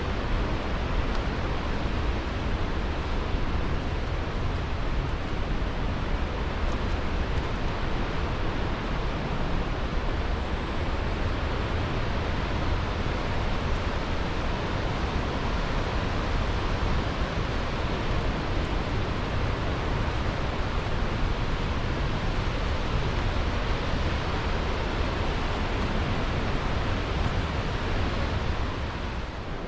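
Steady rush of fast-flowing river water, an unbroken, even roar with heavy low rumble.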